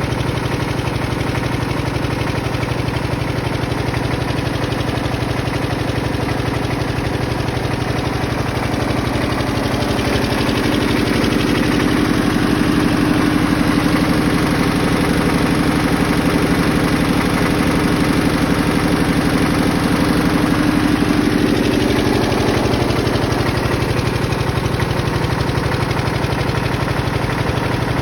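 1958 Porsche Diesel Junior 108L tractor's single-cylinder air-cooled diesel engine idling with a steady, rapid chugging. It gets a little louder from about ten seconds in until about twenty-two seconds.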